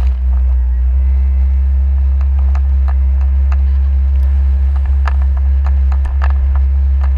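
Jet ski engine running with a steady low drone, with scattered short sharp ticks over it.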